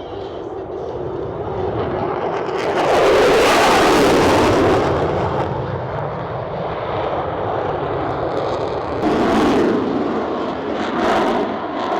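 Aircraft flying past overhead: a broad engine rush that swells to its loudest about three to five seconds in, eases off, and rises again around nine seconds.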